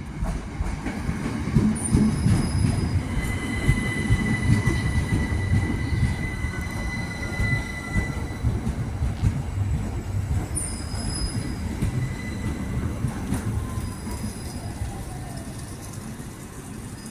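Train moving through the station, with a low rumble and its wheels squealing in several high, steady tones, some briefly gliding down; it is loudest a few seconds in and fades slowly toward the end.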